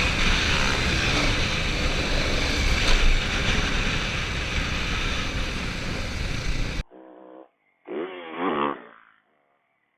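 Dirt bike engines running on a motocross track, heard through heavy wind noise on the microphone. The sound cuts off abruptly about seven seconds in, leaving a quieter background with a brief, indistinct voice.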